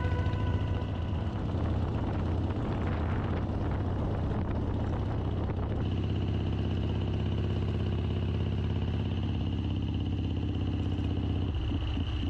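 Motorcycle engine running steadily at cruising speed while being ridden, with a steady high whine joining about halfway through.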